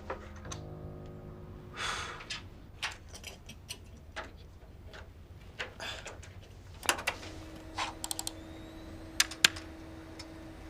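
Computer keyboard keys tapped irregularly, with a few sharper clicks about seven and nine seconds in, over soft background music with held notes.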